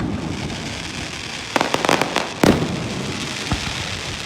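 Aerial fireworks bursting overhead: continuous crackling, a quick cluster of sharp pops about one and a half to two seconds in, then a loud bang about two and a half seconds in and a smaller one a second later.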